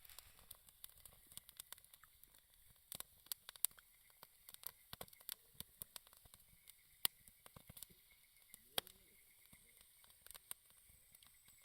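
Wood campfire crackling: irregular sharp pops and snaps from the burning wood, a few much louder than the rest, over a faint steady hiss.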